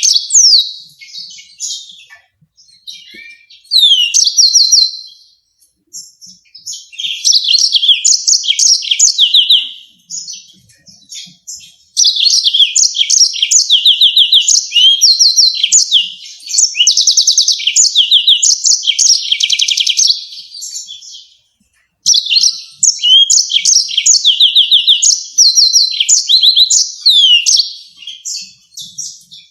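Yellow-fronted canary singing in loud phrases of fast, repeated high trills, broken by short pauses. The longest unbroken phrase runs for about nine seconds through the middle.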